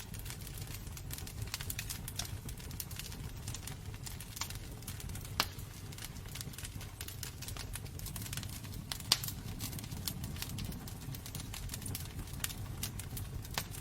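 Wood fire burning in a fireplace: a steady low rumble of flames with irregular crackles and sharp pops of burning wood. Two louder pops come about a third of the way in and again past the middle.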